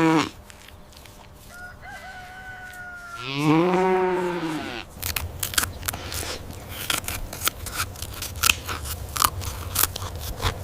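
A cow gives a low moo that rises and falls, about three seconds in, after a thinner, steadier held call. Then comes a run of irregular sharp clicks and crunches lasting several seconds.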